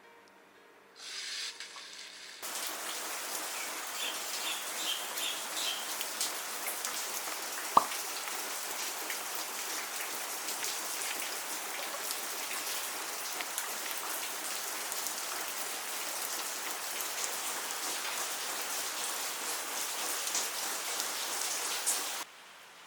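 Steady rain hiss, starting a couple of seconds in and cutting off abruptly near the end, with one sharp click about eight seconds in and a few faint chirps early on.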